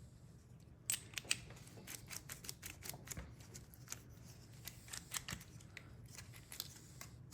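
Rapid, irregular small clicks and ticks of a car door lock cylinder's small metal parts being handled and fitted, starting about a second in.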